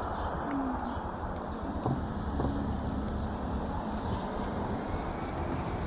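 Steady wind and tyre noise from an electric hyperscooter being ridden, with a faint low motor hum and scattered small clicks from the ground.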